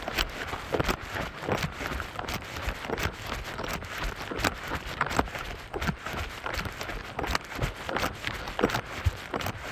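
Running footsteps: a steady train of footfalls, several a second, from a runner jogging downhill.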